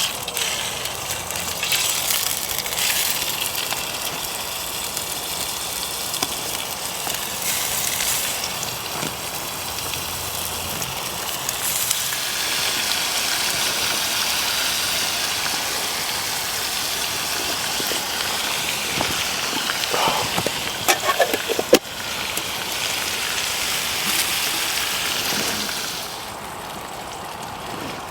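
Bacon frying in a pan over a campfire, a steady sizzle and crackle that eases off near the end.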